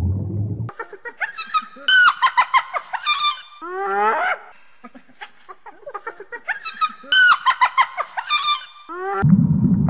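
Spotted hyena giggling: quick runs of high-pitched cackling notes with a rising whoop-like call about four seconds in, and the same run of calls repeats about five seconds later. A brief low rumble cuts off under a second in.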